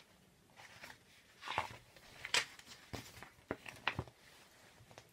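Paper picture book being handled and opened to its first pages: a scattered string of soft taps and short rustles.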